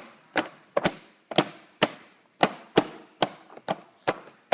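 A steady series of sharp, short knocks, about two to three a second.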